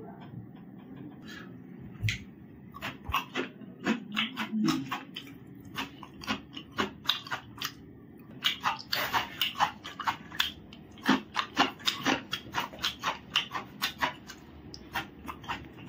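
Close-up chewing of raw cucumber slices: a fast, irregular run of crisp crunches, thickest from about halfway through.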